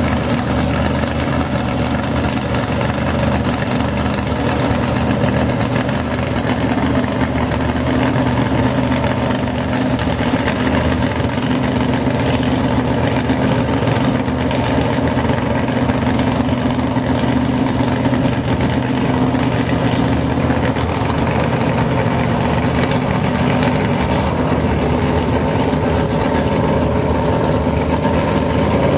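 Holden Commodore's stock 253 cubic-inch V8 idling steadily, staged at the drag strip start line before its run.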